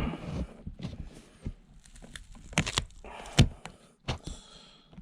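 Plastic door pull handle being tugged and worked free of a Saab 9-5 door trim panel: a run of irregular clicks and knocks, loudest a little past halfway.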